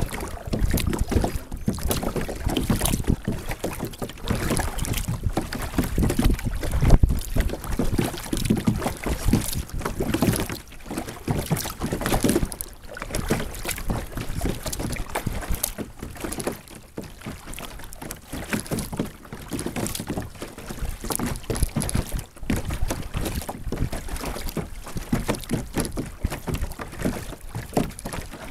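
Water splashing and lapping around a sit-on-top kayak, with wind buffeting the small action camera's microphone in an irregular low rumble.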